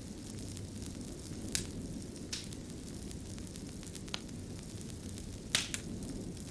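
Fire crackling: a steady low rustle of burning with five sharp pops, the loudest a close pair near the end.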